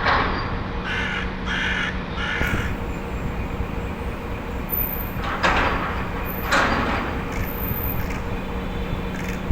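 A crow making unusual calls: three short harsh caws in quick succession about a second in, then two longer calls that fall in pitch near the middle, over a steady background rumble.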